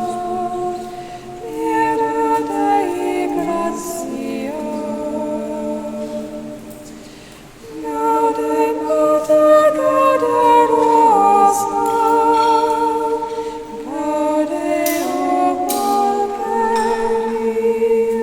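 A choir singing a sacred piece, several voices holding sustained notes in harmony with some vibrato. It grows quieter briefly near the middle, then swells louder again.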